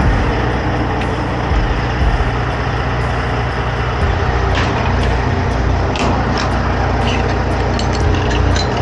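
2005 Kenworth T800 heavy truck running, its diesel engine giving a steady low rumble, with quick ticks or rattles joining about halfway through.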